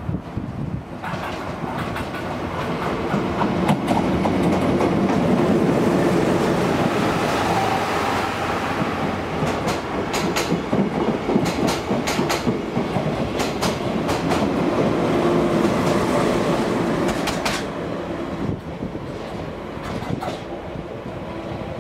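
A train hauled by a DE10 diesel-hydraulic locomotive passes close by, with steady running noise and wheels clacking over rail joints. It grows loud about four seconds in and eases after about seventeen seconds as the train moves off.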